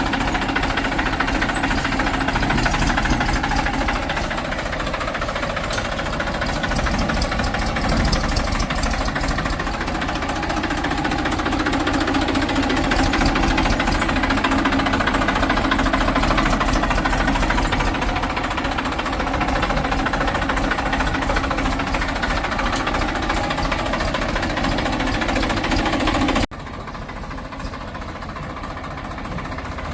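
Heavy diesel machinery engine running with a dense, rapid clatter. About 26 seconds in the sound drops suddenly to a quieter level and carries on.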